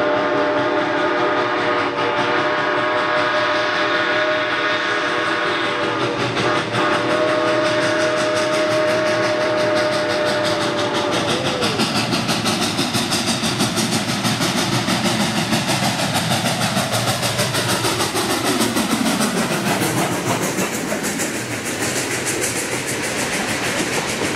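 A train sounds a long chord whistle in two blasts, the second ending about eleven seconds in. Then the rhythmic clickety-clack of its wheels over the rail joints carries on, with a falling tone a little past the middle.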